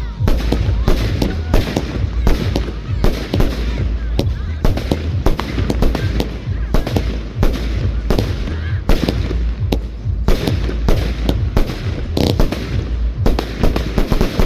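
Fireworks display: a continuous barrage of sharp bangs and crackles, several a second, over a steady deep rumble.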